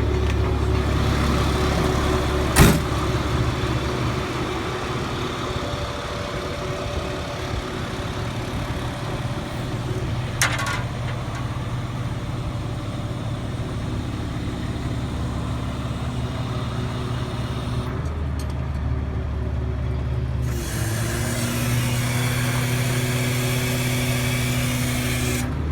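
Diesel engine of a Freightliner FL70 truck running steadily, with a sharp knock about two and a half seconds in and a shorter metallic clank about ten seconds in.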